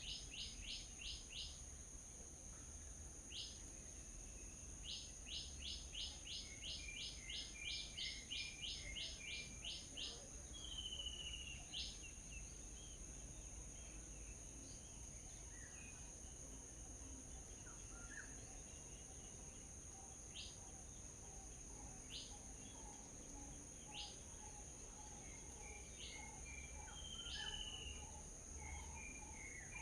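Small birds calling: short, sharp high chirps repeated in runs of about three a second, then scattered single chirps. A steady high insect drone runs underneath.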